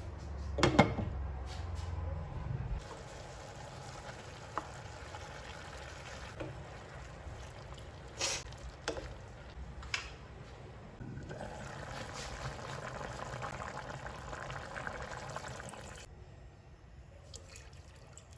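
Water running into a container, filling it for about five seconds, after a few knocks and clinks of handling.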